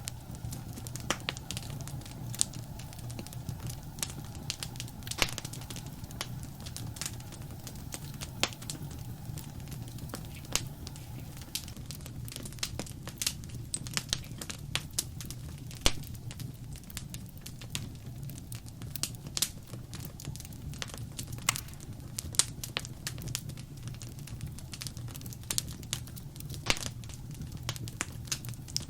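Wood fire in a fireplace crackling: irregular sharp pops and snaps scattered throughout over a steady low rumble of the flames.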